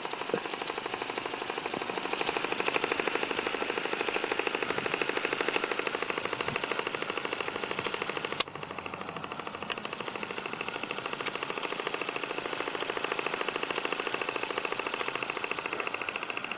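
Stevens Model Dockyard model marine steam engine, 5/8 in bore and stroke, running fast with rapid, even exhaust beats. There is one sharp click about halfway through.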